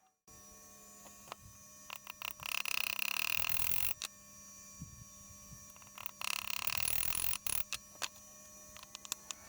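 Tools working on engine parts during a teardown: scattered metal clicks and knocks, and twice a rapid mechanical clicking run of about a second and a half, like fasteners being run loose.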